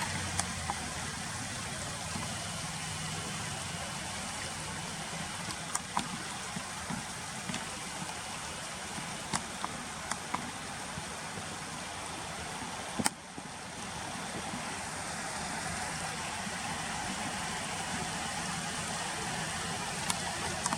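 Steady rushing of flowing river water, with a few faint clicks and one sharp click about thirteen seconds in.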